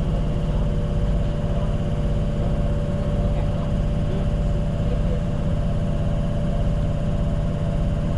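Tyne & Wear Metro train running steadily along the track, heard from the cab: a constant low rumble with a steady hum over it.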